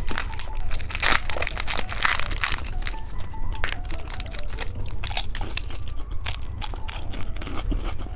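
Plastic and foil candy wrappers crinkling and crackling in rapid, irregular clicks as packaged sweets are handled and unwrapped.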